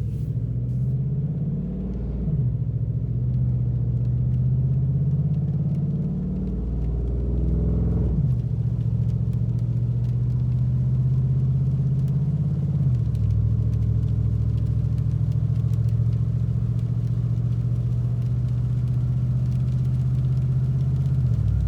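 Chevy 5.3 L V8 pickup engine with true-dual exhaust, no mufflers or resonators, pulling through the gears. The deep engine note climbs slowly and then drops sharply at each of four upshifts.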